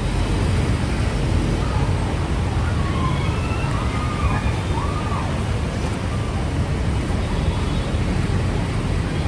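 Steady street noise with a heavy low rumble, and faint voices in the background a few seconds in.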